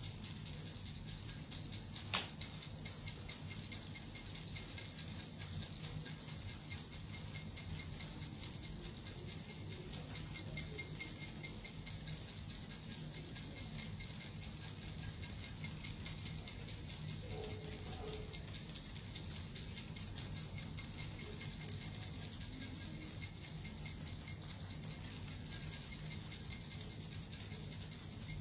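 Small Japanese suzu jingle bells shaken continuously in an unbroken, even shimmer.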